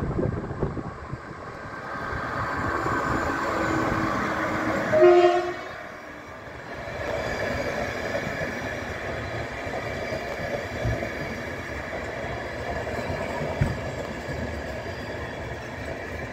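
Passenger train running into a station behind an electric locomotive: the horn sounds, a held note and then a short, loud two-note blast about five seconds in. The coaches then roll past steadily with a few single clacks as the train slows to a stop.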